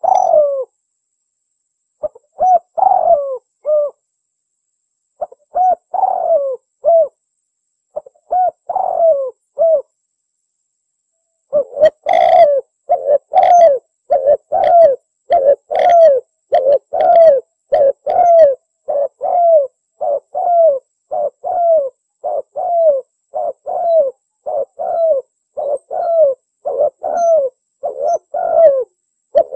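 Spotted dove (tekukur) cooing: three short phrases of down-slurred coos with clean pauses between them, then, from about twelve seconds in, a long unbroken run of coos at nearly two a second.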